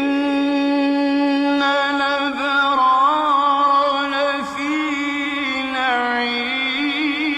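Male Quran reciter chanting in the ornamented tajwid style, holding one long drawn-out phrase. He starts on a steady note, then turns through melismatic rises and dips in pitch, with a wavering vibrato near the end.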